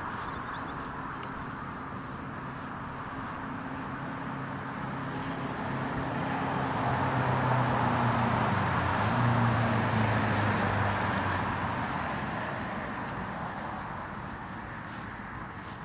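A road vehicle passing by: engine hum and tyre noise grow louder, peak about two-thirds of the way through, then fade away.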